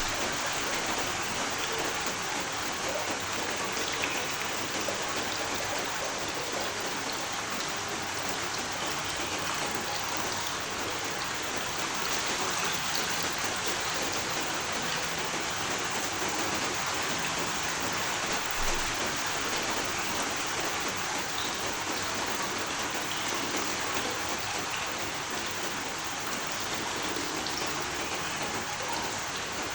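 Steady rain falling, an even hiss of drops with faint scattered drip taps.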